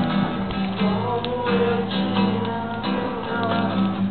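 Acoustic guitar strumming a song, with voices singing along.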